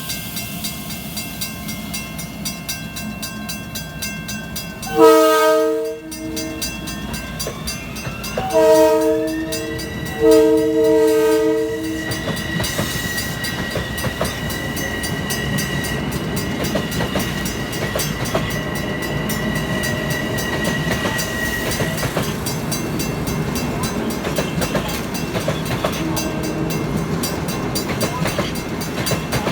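A train's multi-chime horn sounds three times, one short blast then two longer ones. Meanwhile a whine rises in pitch and then holds steady, over the continuous rumble of the train running on the rails.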